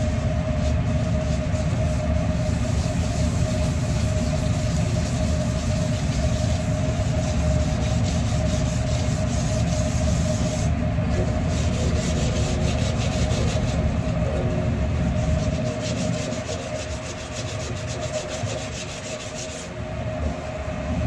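A grill screen scrubbed back and forth over a flat-top griddle surface caked with carbon buildup, a steady scratchy rubbing, over a constant low hum.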